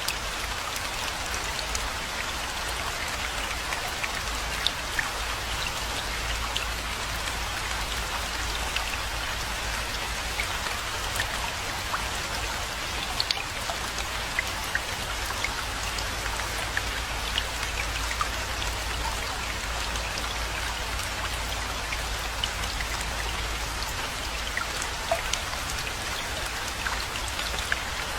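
Steady rainfall: an even hiss of rain with many scattered, sharp individual drop hits, over a steady low rumble.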